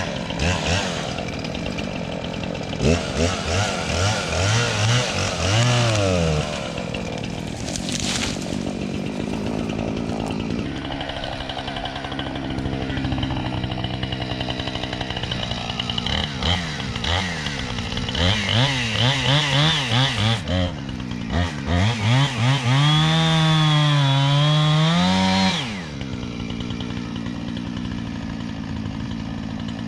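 Two-stroke chainsaw idling and being revved repeatedly, its pitch rising and falling with each blip of the throttle, then held at full throttle for about three seconds before dropping back to idle near the end.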